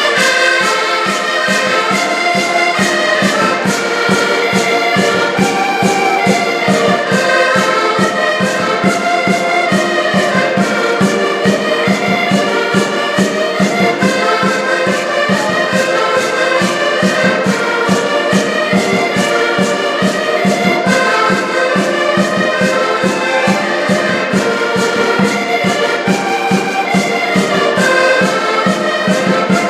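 A band playing music live: several melody lines over a steady beat.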